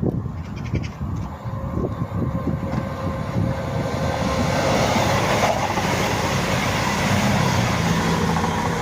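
Voyager diesel-electric multiple unit passing through the station at speed without stopping: engines running and wheels rushing on the rails, loudest about five seconds in.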